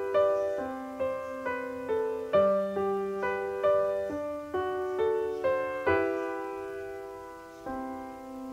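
Background music: a solo piano playing a slow melody, a new note or chord about every half second, each one dying away, with longer held notes near the end.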